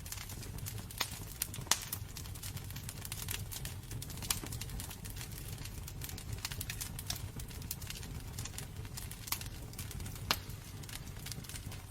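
Wood fire burning in a fireplace: irregular sharp crackles and pops over a steady low rumble, with a few louder pops, the loudest just under two seconds in.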